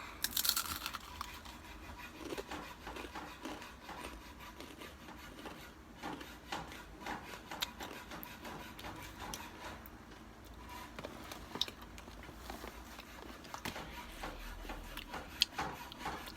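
Takis rolled tortilla chips being eaten close to the microphone: scattered crunching, crackling and rustling.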